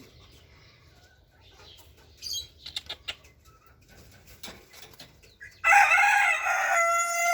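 A rooster crowing once, loud and drawn out, starting near the end. Before it come a few short, faint chicken clucks.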